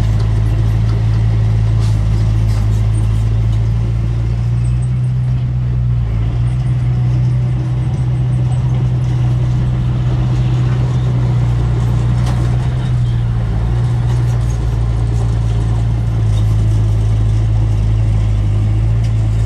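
Heavy diesel engine of earthmoving machinery running steadily at a constant low hum, shifting slightly in pitch a couple of times.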